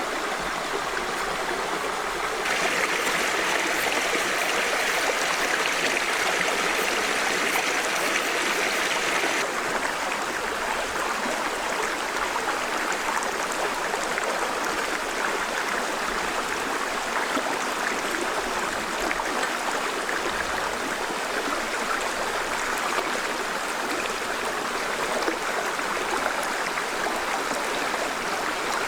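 Steady rushing of running water, like a stream, louder for a stretch from about two to nine seconds in.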